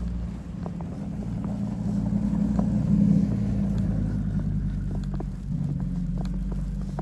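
A motor vehicle's engine running as it passes slowly, a low hum that swells to its loudest about three seconds in and then eases off, with faint crunching footsteps in snow.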